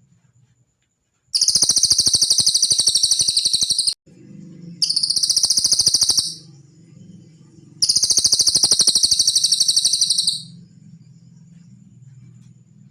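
Cililin bird song: three bursts of very rapid, high-pitched trilling, each lasting one and a half to two and a half seconds, with short pauses between them.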